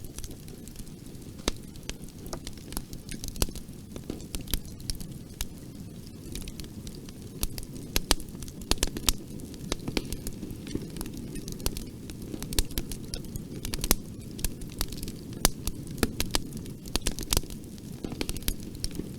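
Bonfire burning: a steady low rush of flames with frequent sharp crackles and pops of burning wood at irregular intervals.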